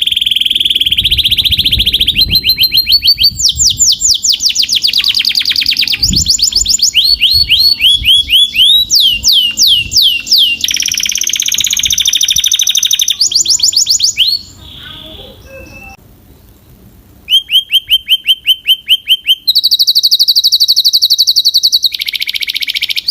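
Domestic canary singing: a loud song built from rapid trills of repeated notes, each run switching to a new note pattern every second or two. The song breaks off for about three seconds past the middle, then resumes.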